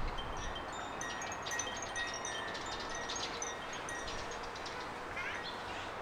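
Small garden birds chirping and twittering, a dense run of short, high, tinkling notes over a steady outdoor background hiss, with a sweeping chirp near the end.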